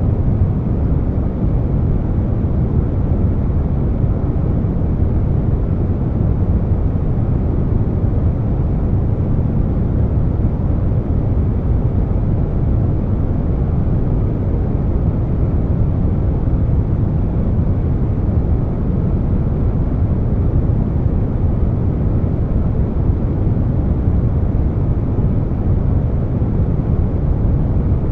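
Air conditioner running, mixed with brown noise: a deep, even rush with no changes.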